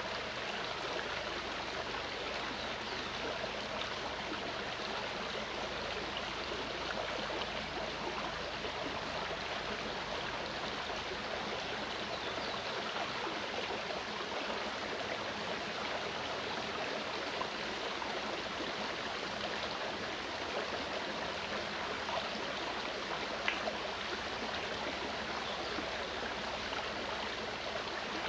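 Clear mountain stream running over rocks, a steady rushing and gurgling of water.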